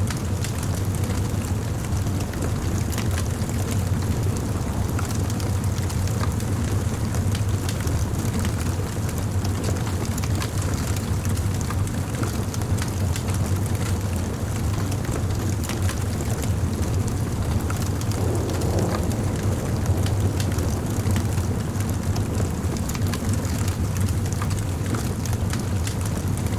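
Wood fire burning: a steady low rumble with frequent small crackles and pops from the burning wood.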